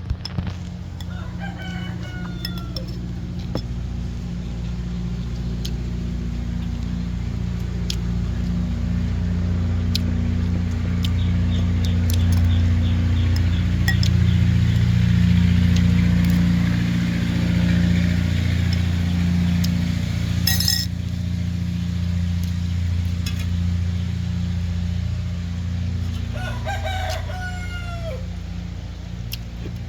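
A rooster crows twice, about a second in and again near the end, over a steady low engine-like hum that swells in the middle.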